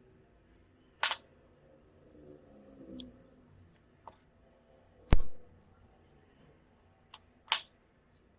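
Small tools and phone parts handled on a work surface during a phone teardown: a series of sharp clicks and taps, with a louder knock about five seconds in.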